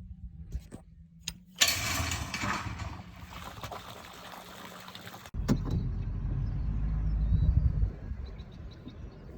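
Vehicle engine running with a low hum. About a second and a half in, a loud rush of noise lasts a second or so and fades. Past five seconds there is a click, and the engine then runs louder and deeper for a few seconds before easing off.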